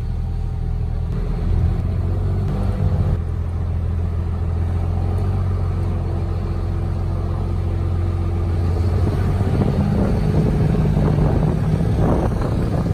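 A vehicle's engine running steadily, its pitch stepping up a little with more rumble from about nine seconds in.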